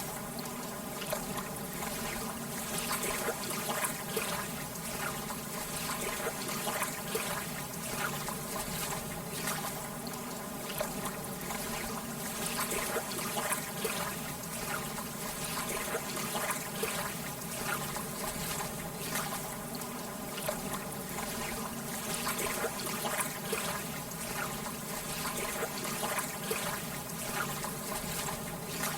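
Lake water lapping and trickling gently: a steady wash with many small, irregular splashes.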